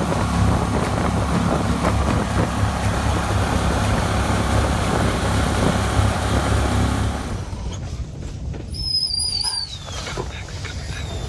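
Mud Buddy mud motor driving a duck boat, a steady pulsing low rumble that dies away about seven seconds in. A high wavering whistle follows near the end.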